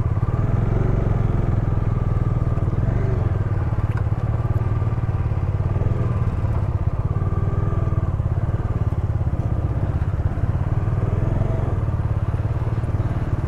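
Bajaj Dominar 250's single-cylinder engine running at steady revs as the motorcycle is ridden.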